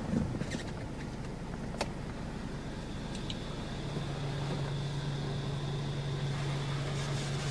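Automatic car wash machinery heard from inside the car: a steady low hum, with a knock just after the start and a faint high whine joining about three seconds in.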